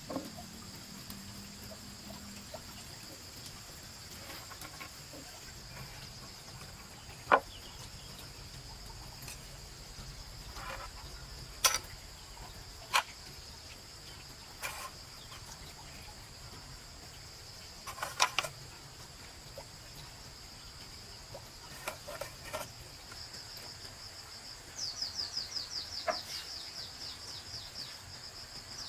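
Insects chirring in a steady, high-pitched drone, with a handful of sharp knocks, the loudest about seven seconds in, and a quick run of rapid chirps near the end.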